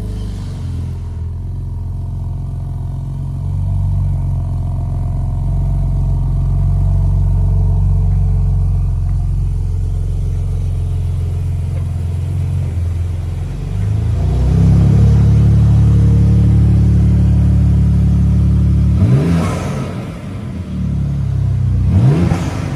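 BMW G80 M3's twin-turbo inline-six idling high after a cold start through an R44 titanium exhaust with the valves fully open. The idle settles a little higher and louder about two-thirds of the way in. Near the end come two short throttle blips, each rising quickly in pitch.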